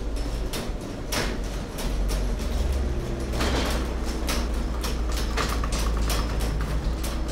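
Car engine running with a low steady rumble, heard from inside the cabin, with irregular clicks and knocks.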